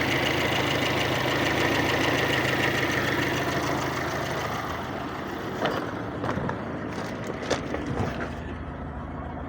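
VAZ-2111 1.5-litre eight-valve inline-four idling steadily, warmed up to operating temperature. It grows somewhat quieter in the second half, with a few faint clicks.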